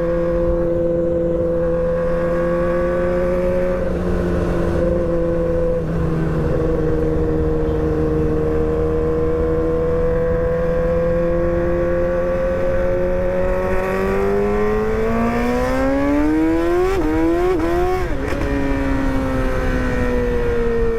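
R6 sport motorcycle engine under way, holding steady revs, then revving up for about four seconds with two quick shifts before the revs drop sharply and settle into a steady, slowly falling drone.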